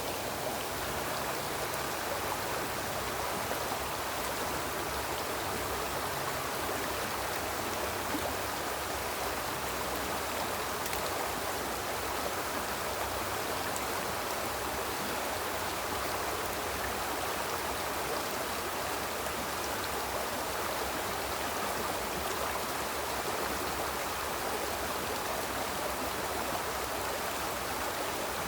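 Water of a small river flowing steadily over its bed, a continuous, even rush that stays level throughout.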